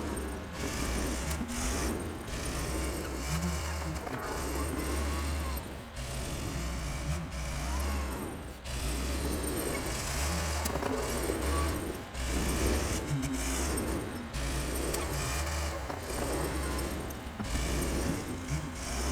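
Engine of an old Volvo tractor running while it pushes snow: a steady low drone with mechanical noise above it that swells and eases every second or two.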